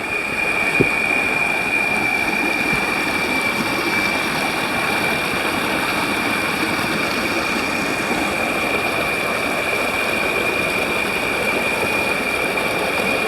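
Fast-flowing water rushing in a steady, even stream, with a steady high-pitched tone above it.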